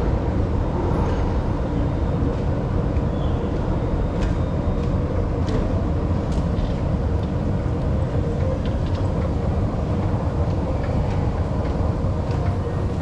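Singapore MRT train running along the track, heard on board: a steady rumble with a faint steady whine and scattered light clicks.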